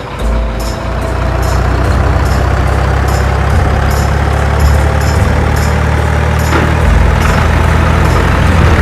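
Heavy truck engine sound running steadily, with a faint regular high ticking about twice a second.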